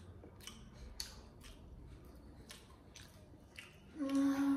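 Close-miked eating sounds: wet chewing and lip smacks, heard as a few separate sharp clicks spaced about half a second to a second apart. About four seconds in, a held, steady "mmm" hum from a voice begins.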